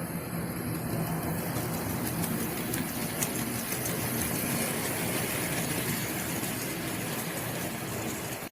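Model railway locomotives running on the track: electric motors humming steadily, with wheels clicking now and then over rail joints. The Hornby class 58's motor is grumbling, a sign it is starting to wear and may need replacing.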